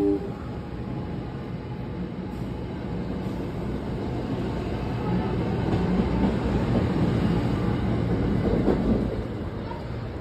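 A train running past: a steady rumble and wheel-on-rail noise that grows louder over several seconds and eases off near the end. The tail of a train horn blast cuts off just as it begins.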